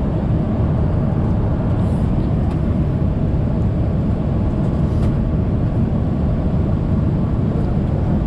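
Steady airliner cabin noise: the low, even rush of engines and airflow heard from inside the passenger cabin in flight.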